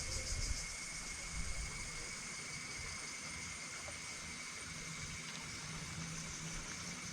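Steady jungle ambience: insects droning in a high, finely pulsing band with a thin steady whine, over an uneven low rumble.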